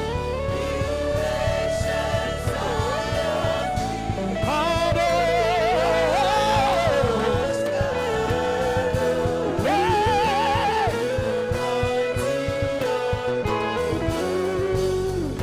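Live gospel worship music: a singer holding and ornamenting long wavering notes over a band with guitar and a steady beat.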